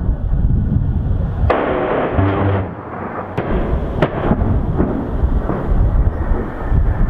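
A-10 Warthog's GAU-8 Avenger 30 mm rotary cannon firing one burst of about a second, the fast-rate 'BRRRT', about a second and a half in, over a low rumble, followed by a few sharp cracks.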